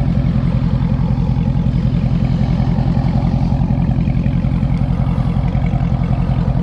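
2018 Dodge Daytona 392's 6.4-litre HEMI V8 idling steadily, with a deep, even rumble.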